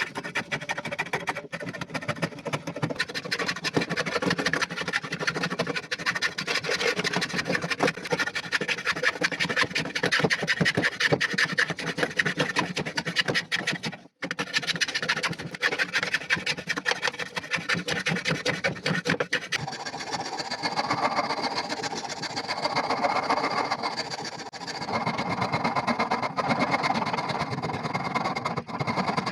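Rapid, continuous hand-filing or rasping strokes on the axe work, with a short break about halfway through and a change in tone in the last third.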